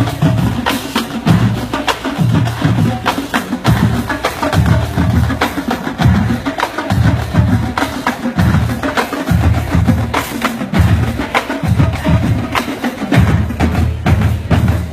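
High school marching band playing a funk groove: a loud pulsing bass line under brass, with many sharp percussion hits on top.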